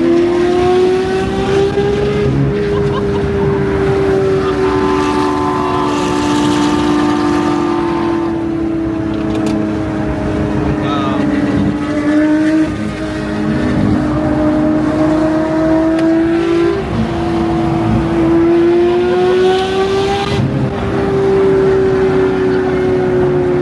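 Porsche 992 GT3's naturally aspirated flat-six running hard on the road, a steady loud drone whose pitch rises and falls gently as the throttle and speed change.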